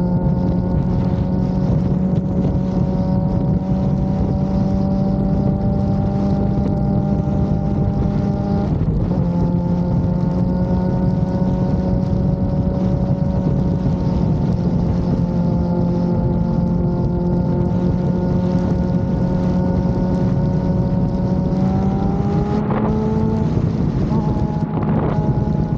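Suzuki GSX-R750's inline-four engine running at a steady cruise, its pitch creeping slowly upward, with wind rushing over the microphone. The engine note briefly dips about nine seconds in, and a few seconds before the end the revs climb and then shift.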